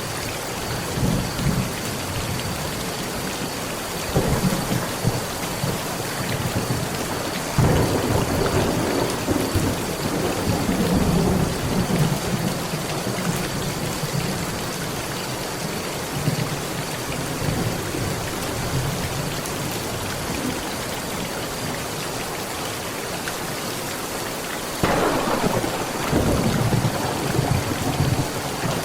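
Heavy rain drumming steadily on a metal roof, with rolling thunder. A short rumble comes about four seconds in, a louder clap follows a few seconds later and rolls on for several seconds, and another rumble breaks in near the end.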